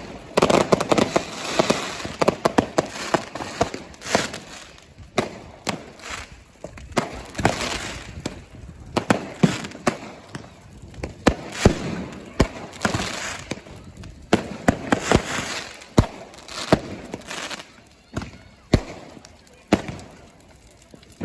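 Fireworks going off over and over: sharp bangs and crackles at irregular intervals, some in quick clusters, each trailing into a short echoing rumble.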